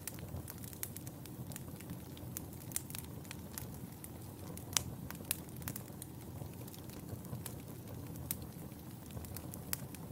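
Wood fire crackling in a fireplace: a steady low rumble of flames with irregular sharp pops and snaps, the loudest about halfway through.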